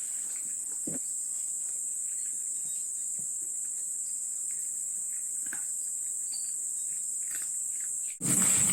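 Steady high-pitched chorus of crickets chirring, with a few faint knocks. Near the end it cuts out for an instant and comes back louder.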